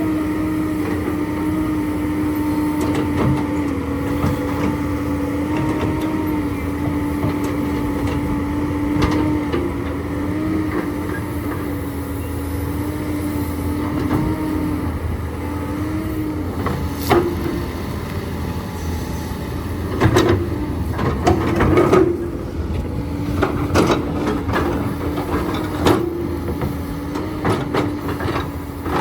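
Hydraulic excavator's diesel engine running steadily at a low hum, with a series of sharp clanks and knocks, clustered in the later part, as the machine digs limestone.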